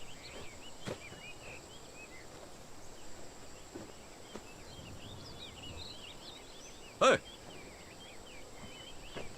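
Outdoor ambience of many small birds chirping continuously, with one short sharp knock about seven seconds in.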